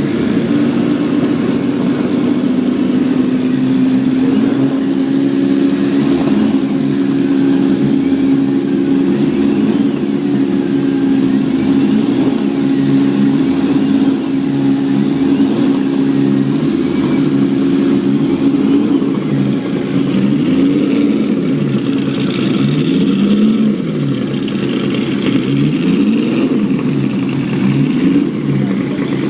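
Classic race car engine running at a steady fast idle, then revved up and down repeatedly in the second half.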